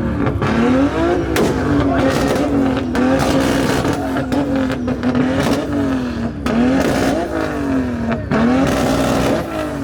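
Car engine revved hard over and over, its pitch climbing and dropping repeatedly, with several sharp cracks between the revs.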